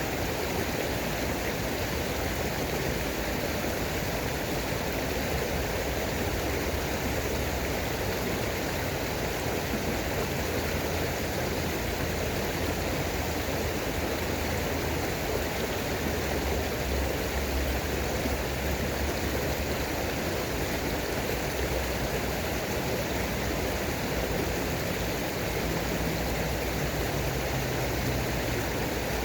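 Running water, a steady, even rush without breaks.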